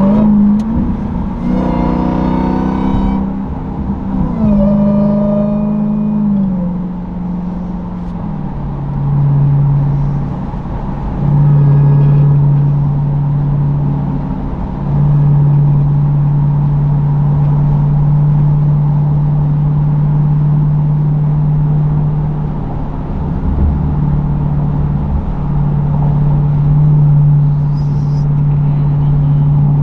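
Supercharged 6.2-litre Hemi V8 of a Dodge Durango SRT Hellcat running with its mufflers cut off. Through the first several seconds the revs climb and drop under acceleration, then the exhaust settles into a steady low drone at cruising speed.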